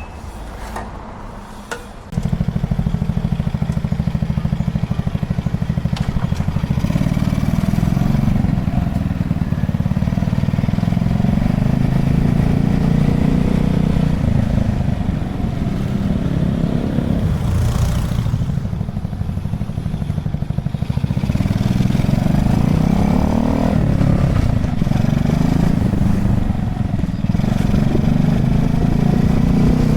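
Honda Chaly minibike's small single-cylinder engine running as the bike is ridden. It gets much louder suddenly about two seconds in, then its pitch rises and falls several times with acceleration and gear changes.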